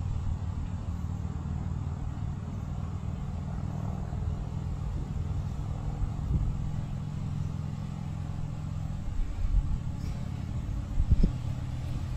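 Diesel freight locomotives running with a steady low engine drone and rumble, with a few low thumps near the end.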